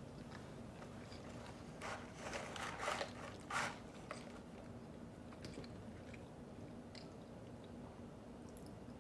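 Close-miked biting and chewing of fast food, with a cluster of crunchy bites about two to four seconds in, then softer chewing and small mouth clicks.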